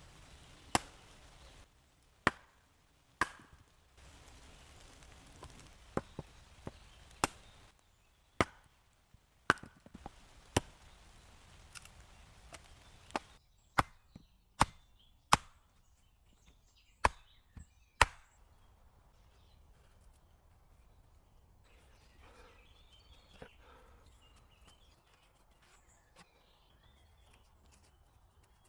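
Wood being chopped: a series of sharp chopping strikes, roughly one a second, that stop about two-thirds of the way through.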